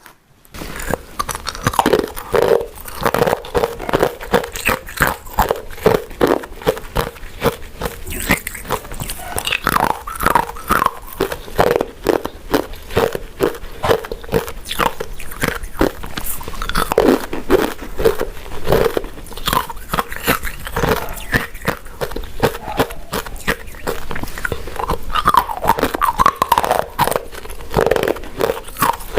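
Close-miked chewing of soft, chewy glutinous rice cakes and mochi: a dense, continuous run of sticky, wet mouth clicks, several a second.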